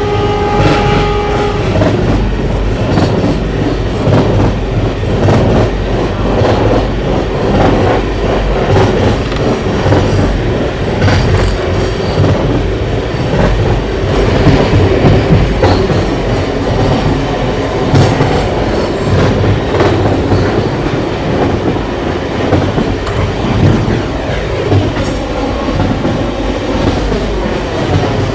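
Diesel-hauled passenger train running past, a loud steady rumble with its wheels clattering over the rail joints. A horn note that was already sounding cuts off about a second and a half in.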